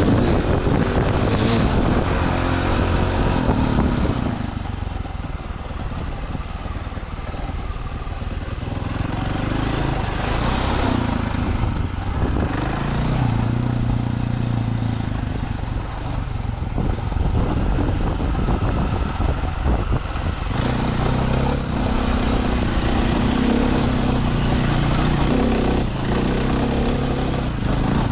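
Dirt bike engine running under load while riding, revving up and easing off over and over. It drops lower and quieter for a few seconds about five seconds in, then picks up again.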